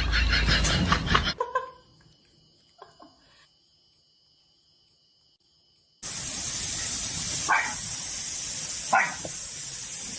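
A dog giving two short sharp barks over a steady background hiss, after a loud, busy burst of sound and a few seconds of near silence.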